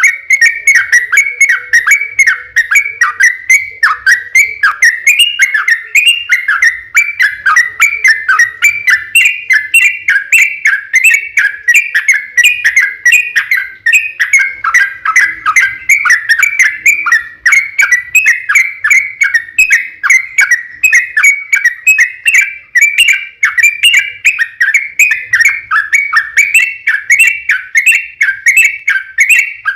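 Yellow-vented bulbul (trucukan) singing a long, unbroken run of quick chattering notes, one phrase after another without pause.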